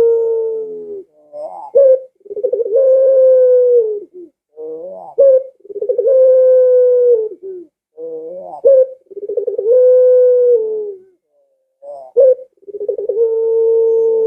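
Puter (Barbary dove, pelung type) cooing over and over. Each phrase is a short rising note followed by a long, steady coo of about two seconds, repeating roughly every three seconds.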